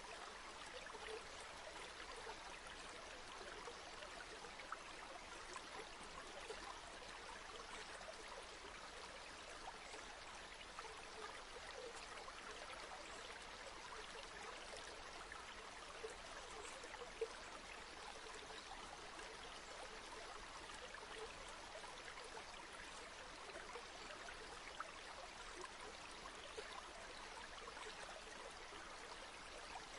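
River water flowing, a faint, steady, even rush with a few brief sharper splashes, the loudest about seventeen seconds in.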